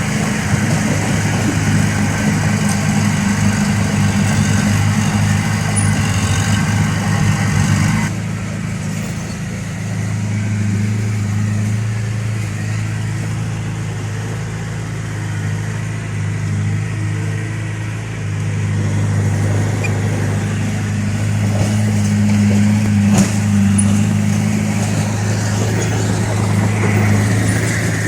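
Diesel engine of heavy earthmoving equipment running steadily. The sound changes abruptly about eight seconds in, drops a little, then grows louder again in the second half.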